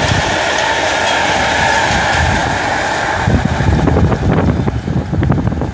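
Freight train of open coal wagons rolling past, a steady loud noise of wheels on rail with a constant hum in it. About three seconds in, the last wagon goes by and the rolling noise drops away, leaving gusts of wind on the microphone.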